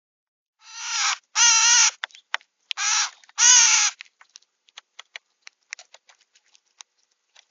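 A bird's harsh, raspy calls, four in two pairs, followed by a string of short scattered ticks.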